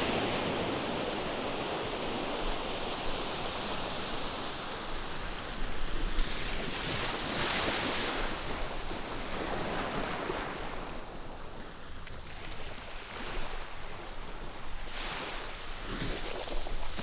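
Ocean waves breaking in the distance, a steady wash of surf that swells and eases, with louder surges about six seconds in and again near the end.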